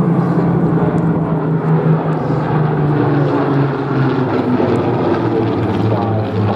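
Propeller aircraft flying past, its steady engine note sliding gradually down in pitch as it passes.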